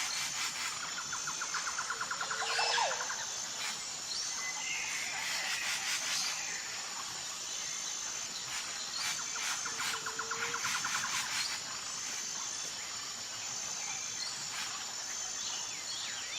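Forest ambience: a steady, pulsing chorus of insects high in pitch, with scattered bird calls. Two rapid trills come in, one about a second in and another about nine seconds in, each lasting around two seconds.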